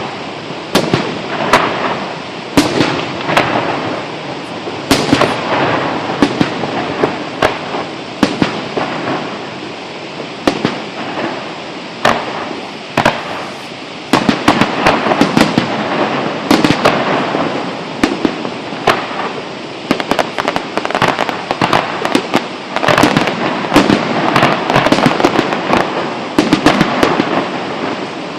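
Aerial fireworks display: shells bursting in a loud, irregular string of bangs over continuous crackling, the bursts coming thickest in the last third.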